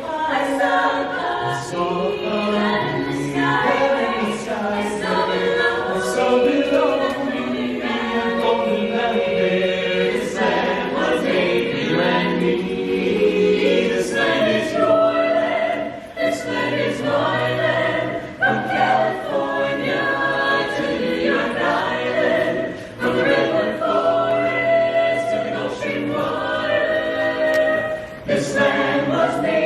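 Small a cappella choir singing in close harmony, with no instruments, pausing briefly between phrases.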